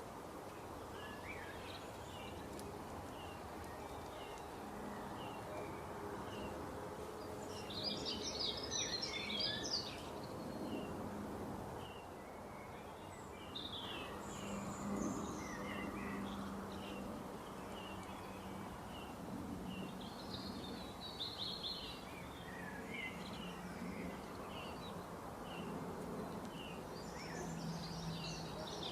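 Birds chirping: short calls repeated throughout, with denser bursts of twittering about eight seconds in, again around twenty seconds, and near the end, over a steady low hum.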